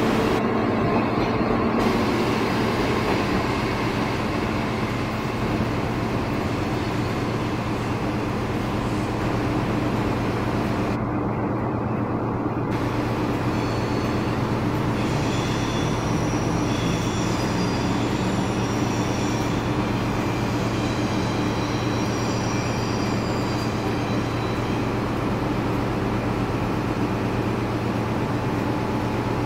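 Eurostar Class 373 electric train running on the station approach tracks: a steady rumble and hum. From about 15 to 24 seconds in, faint high-pitched tones come and go over it.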